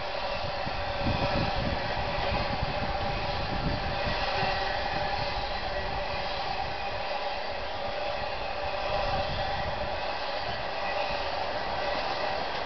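Intermodal freight cars loaded with containers and truck trailers rolling past on the rails: a steady rumble of wheels on track, with a constant humming tone over it.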